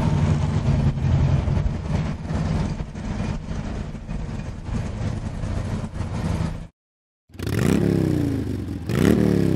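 2006 Harley-Davidson Road King's 88 cubic inch V-twin engine idling steadily just after starting. After a brief cut to silence near the end, the engine is revved twice, the pitch rising quickly and then falling back each time.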